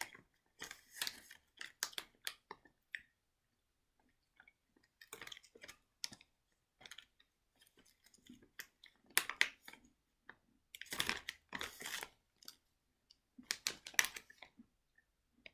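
A cookie being eaten out of a clear plastic bag held at the mouth: close-up chewing and crunching, with crackles from the bag, coming in irregular bursts with short pauses between.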